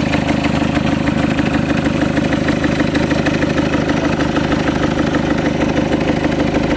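Peugeot 207 HDi diesel engine idling with a steady, rhythmic 'brr brr' rumble. The noise goes away when the turbocharger is pressed by hand, which points to the turbo.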